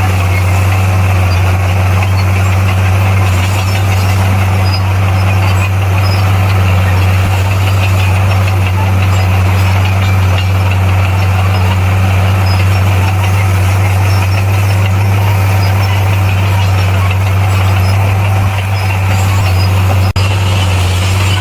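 Heavy earthmoving machine's diesel engine running at a steady, unchanging deep drone, with a brief dropout about twenty seconds in.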